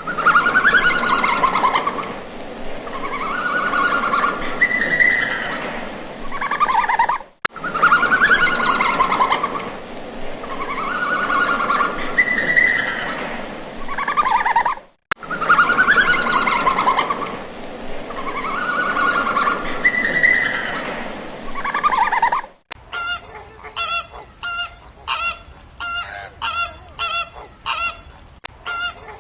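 Birds calling loudly. The same stretch of calls over a noisy background plays three times with brief gaps. Then a different run of short, evenly spaced calls follows at about two a second.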